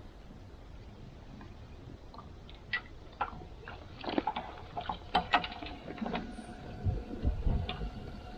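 Irregular knocks and clinks of metal camp cookware being handled, with a faint ring lingering after the louder clinks and a few dull thumps near the end.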